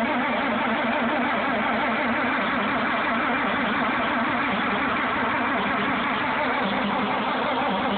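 Farmall 460 tractor's six-cylinder gasoline engine running steadily on a cold morning, not yet warmed up.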